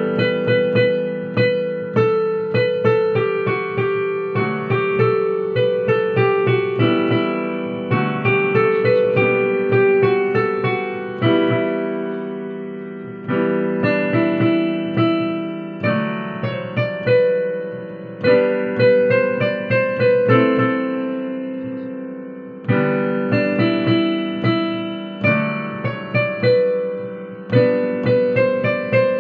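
Solo piano playing a flowing melody of struck notes over held low bass notes, in phrases that let the sound die away briefly twice before going on.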